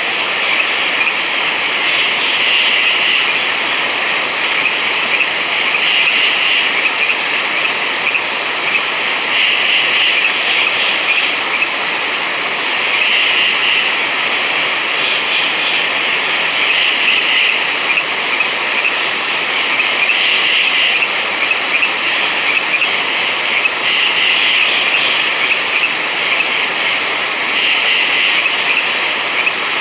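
Night chorus of frogs: a dense steady background of calling, with a louder frog call of under a second repeating about every three and a half seconds.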